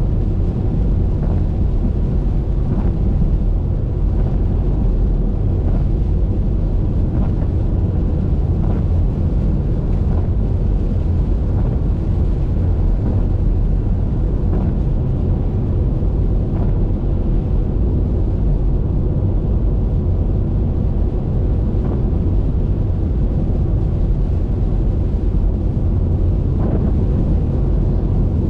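A car driving on a wet highway: a steady, deep rumble of road and wind noise, with faint, scattered ticks of light rain on the windshield.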